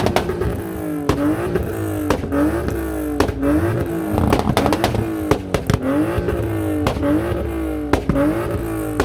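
A car engine revved again and again, its pitch climbing and dropping about once a second, with sharp pops and cracks from the exhaust.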